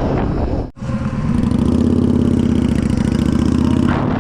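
Two-stroke dirt bike engine held at high revs, its pitch climbing slowly, with a brief dropout in the sound under a second in.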